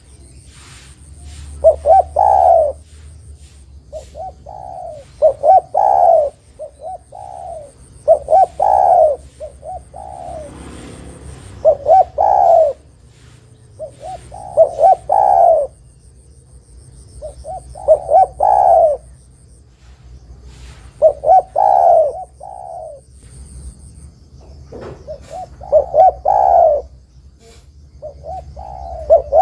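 Spotted dove (tekukur) cooing: short phrases of a few deep coos repeated about every three seconds.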